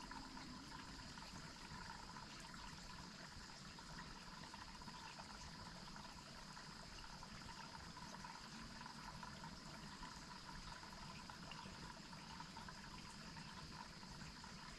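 Faint, steady rush of a waterfall, with thin high steady tones running over it.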